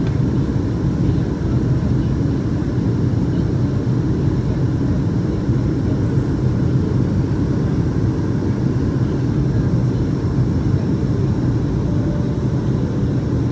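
Cabin noise of a Boeing 757-200 in flight: its Pratt & Whitney PW2000 turbofans and the airflow make a steady low rumble.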